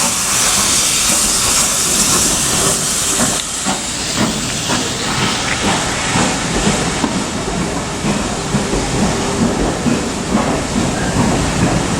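Manor class steam locomotive letting off a loud steam hiss for the first three seconds or so. The hiss then drops away and an uneven run of beats follows, about two a second.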